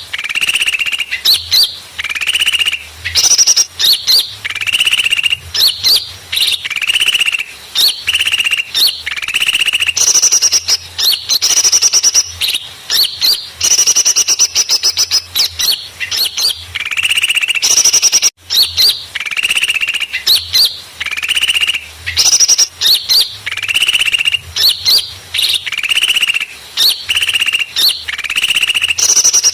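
Bird-lure recording of small birds chattering noisily: loud, rapid, high chirping calls repeated over and over, with a brief gap about two-thirds of the way through.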